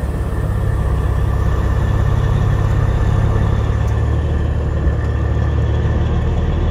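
Semi truck's diesel engine idling steadily, a deep low hum that grows a little louder over the first couple of seconds.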